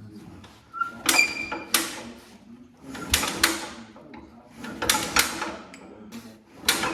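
Hercules IXA engine being turned over for its first run after a rebuild: short bursts of sharp clattering strokes about every two seconds, without the engine catching.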